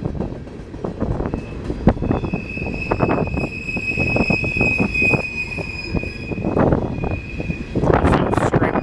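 Freight train rolling past, its cars knocking and clanking over the rails, with a steady high-pitched wheel squeal from about a second in until near the end. The squeal is typical of a hard, barely turning wheel dragging on the rail.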